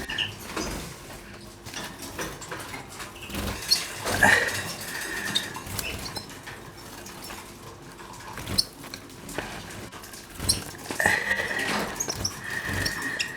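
Caged goldfinch mules chirping now and then, with light scratching and pattering as they hop about the cage. Two longer held notes come about four and eleven seconds in.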